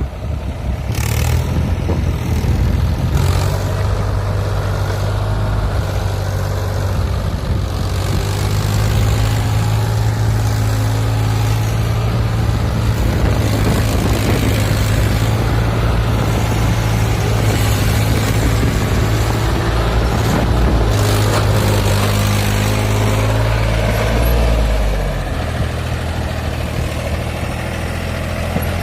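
Tractor diesel engine running steadily at high revs, then easing off and running quieter about 25 s in.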